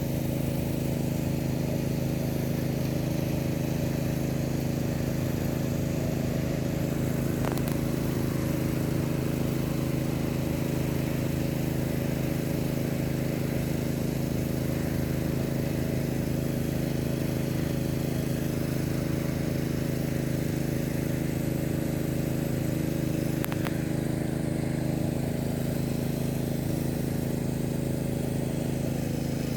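A steady, unchanging low motor hum, like an engine running at a constant speed, with two faint clicks.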